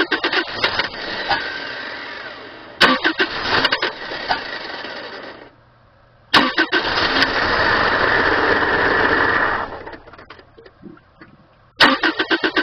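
1997 Subaru Outback's 2.5-litre flat-four engine being cranked over by the starter in fast rhythmic chugs, catching and running for a few seconds, then dying out and being cranked again several times. It is struggling to start and keep running because the fuel tank is almost empty.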